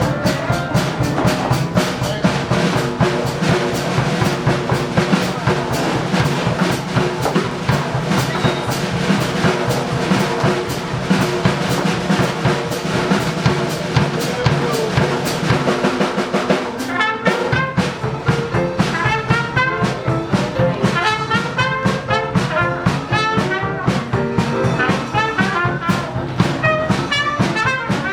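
Live classic jazz band playing an up-tempo number, with horns over a steady drum beat. About two-thirds of the way through, the bass drops away and a wavering, vibrato-laden horn melody comes to the front.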